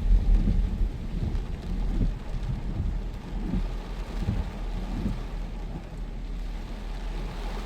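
Heavy rain in a strong wind storm: a steady rush of rain with irregular low rumbling gusts underneath.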